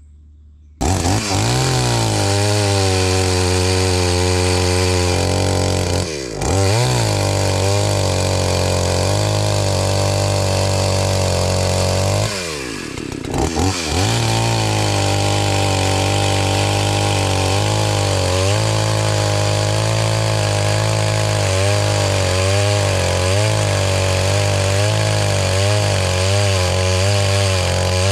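Gas chainsaw running at full throttle while cutting firewood, its pitch wavering under load. It starts suddenly about a second in, and the revs drop back and climb again twice, about six seconds in and again around thirteen seconds.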